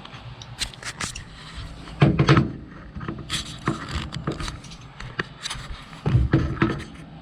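Handling noise of a camera being moved and set in place: scattered clicks, knocks and rubs, with a heavier thud about two seconds in and another about six seconds in.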